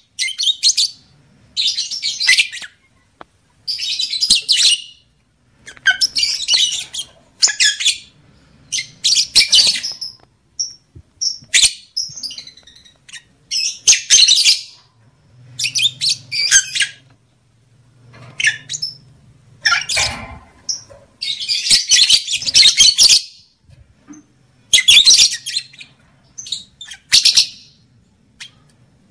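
Lovebird chattering and chirping in loud, shrill, harsh bursts of half a second to a second and a half, repeated every second or two.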